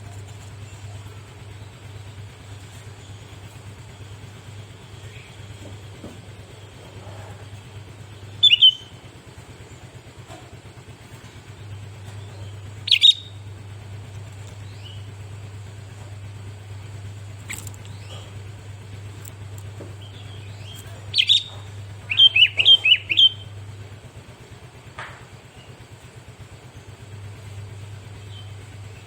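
Sooty-headed bulbul (kutilang) giving short, loud chirps: one about eight seconds in, another about five seconds later, then a quick run of notes about three quarters of the way through. A steady low hum lies underneath.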